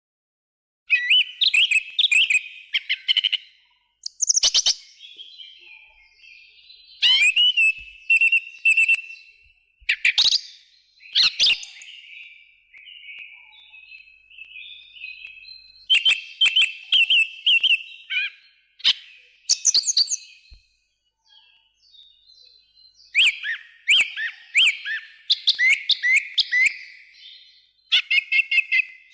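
A songbird singing in short bursts of rapid high chirps and quick rising notes, phrase after phrase with pauses of a second or two, and softer twittering between the phrases.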